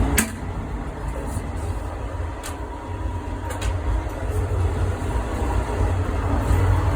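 Steady low rumble and noise inside a moving passenger train carriage, with a few faint clicks and rattles, growing a little louder near the end.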